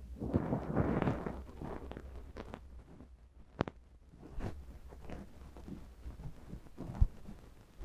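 Soft scratching and rustling close to the microphone for about two seconds, then scattered light ticks, with a sharp click about three and a half seconds in and a soft thump near seven seconds.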